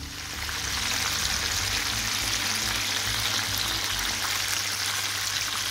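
Flour-coated chicken wings deep-frying in oil in a pan: a steady, dense sizzle with fine crackling from the bubbling oil, rising over the first second and then holding even.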